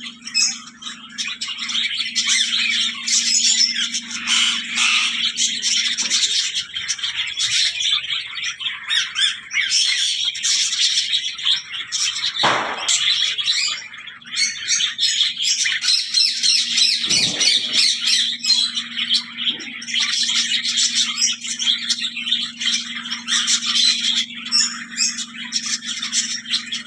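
A mixed flock of cage birds chattering and chirping at once, dense and continuous, with two louder squawks about halfway through. A steady low hum runs beneath.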